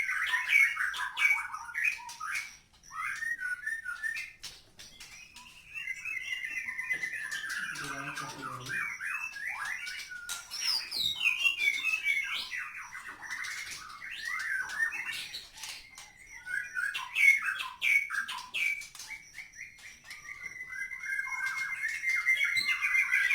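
White-rumped shamas (murai batu) in their cages, calling and chattering: many short, overlapping chirps and rattling calls with no pause.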